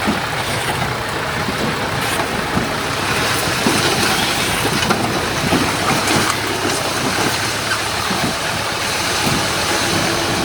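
Komatsu bulldozer's diesel engine running steadily, with small irregular knocks and clanks mixed into the noise.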